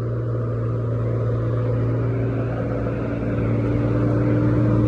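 Large engine running with a steady low drone that slowly gets louder, typical of a heavy machine at work.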